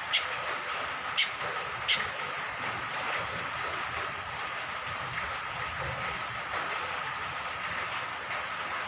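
Steady hiss of falling rain, with three short, sharp high chirps from a cucak kombok (kecial kombok), a small honeyeater, in the first two seconds.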